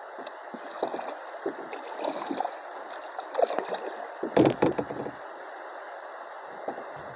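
Kayak paddling through small creek rapids: steady rushing water with irregular paddle splashes, and one hard knock about four and a half seconds in, the loudest moment.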